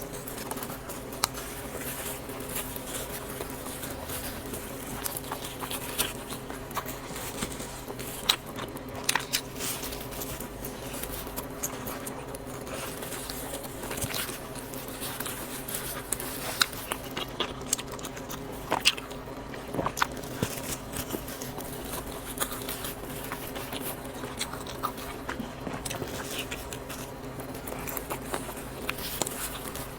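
Close-miked mukbang eating: chewing and mouth sounds over noodles, with many small sharp clicks and smacks scattered irregularly throughout. A steady low hum runs underneath.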